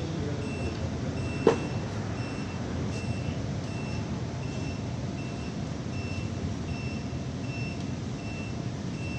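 A vehicle's reversing alarm beeps steadily, about one short high beep every 0.6 s, over a running engine. There is a single sharp knock about a second and a half in.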